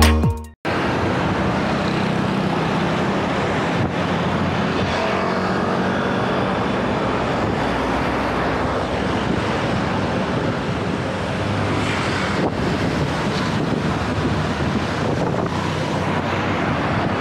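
Steady wind rush and road noise on the microphone of a camera carried on a moving bicycle, with a faint engine hum from nearby traffic.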